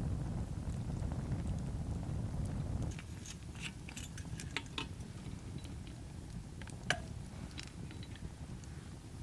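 Low wind rumble on the microphone, cutting off abruptly about three seconds in to a quieter background of scattered small clicks and clinks.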